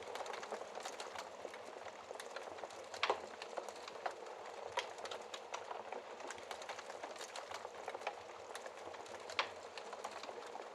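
Wood fire crackling in a fireplace: a steady soft hiss with frequent sharp pops and snaps, two louder pops about three seconds in and near the end.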